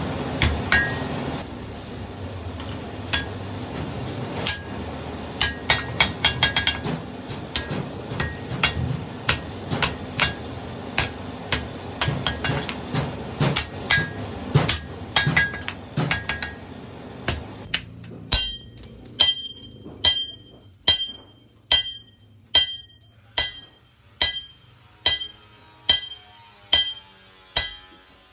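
Blacksmith's hammer striking metal, each blow ringing. At first the blows are irregular, over a busy shop background. About two-thirds of the way in they settle into a steady rhythm of ringing strikes, a little under two a second.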